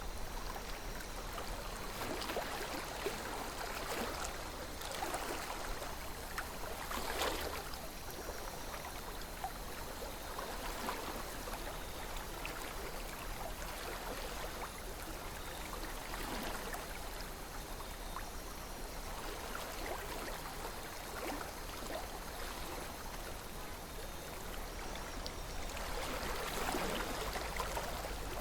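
River water flowing steadily, a continuous gentle rush of moving water with a few brief louder swirls and splashes.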